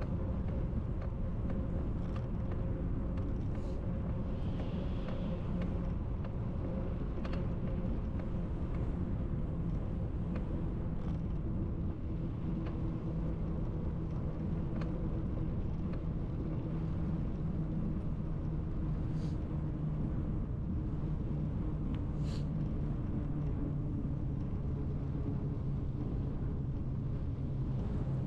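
Steady low rumble of wind buffeting the microphone while riding a bicycle, with a faint steady hum and a few light clicks from the moving bike.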